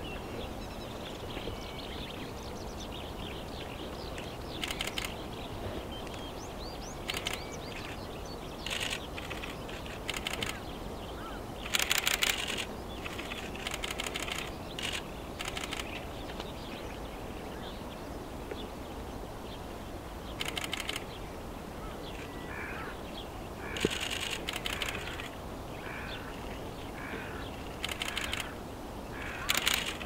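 Short, harsh bird calls, about a dozen scattered through, over a steady outdoor background hiss.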